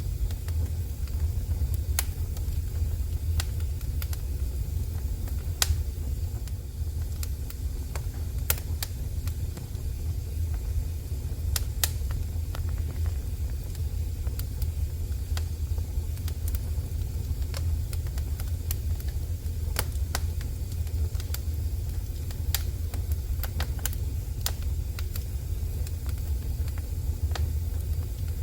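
Wood fire burning in a fireplace: a steady low rumble with sharp, irregular crackles and pops about every second or two.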